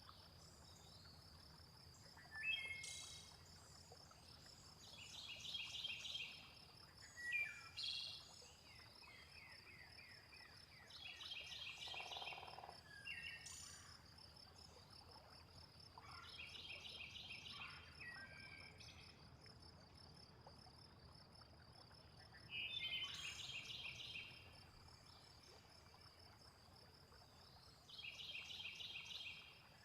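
Faint nature ambience: a steady high insect drone with short trilling calls and chirps that come every few seconds, each about a second long.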